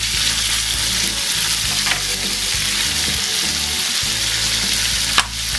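Deboned chicken pieces sizzling steadily in hot olive oil in a frying pan with garlic and red onion, browning. A single sharp click near the end.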